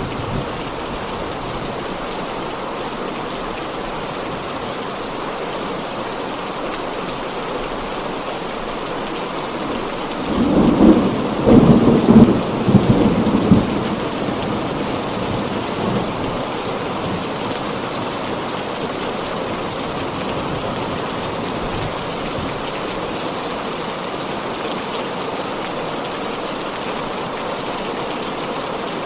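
Heavy rain falling steadily. About ten seconds in, a peal of thunder rolls in as a loud rumble that lasts about four seconds, then dies away under the rain.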